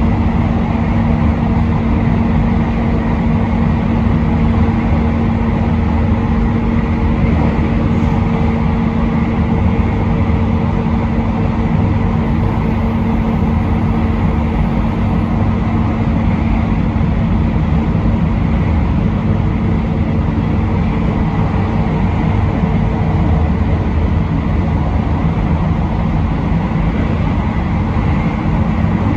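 Passenger train running steadily along the line, heard from inside at the front: a continuous rumble of wheels on rail with a steady low hum.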